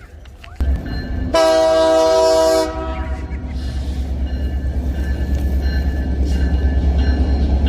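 Train sounding one horn blast of about a second, then rolling past with a steady low rumble that grows slightly louder.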